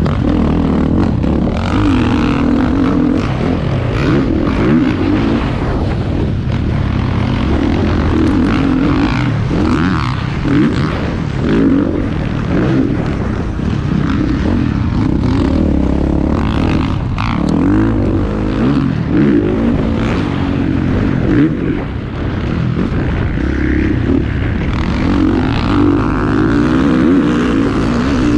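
Several off-road motocross bikes racing, their engines revving up and down continuously as they go round the track.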